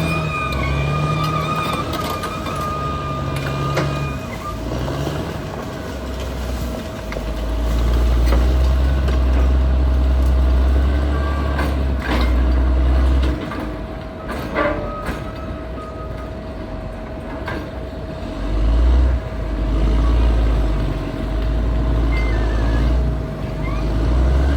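Caterpillar D6R XL bulldozer's diesel engine running and working under changing load, its low rumble swelling twice for several seconds. A high, wavering squeal comes in the first few seconds, and a few sharp clanks come near the middle.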